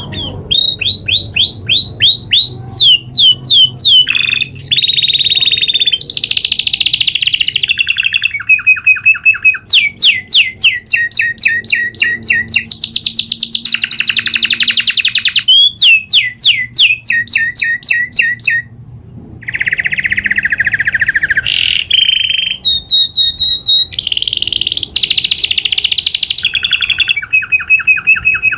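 Domestic canary singing a long, continuous rolling song: rapid trills and repeated note series that switch phrase every second or two, with one short pause about two-thirds of the way through.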